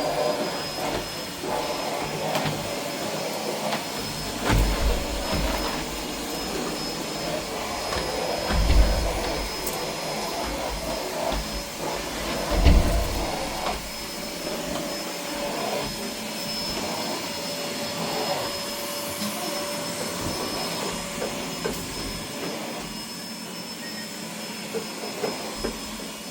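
An electric motor switching on with a quick rising whine, then running steadily with a high whine over a rushing, vacuum-cleaner-like noise. A few dull thumps sound over it.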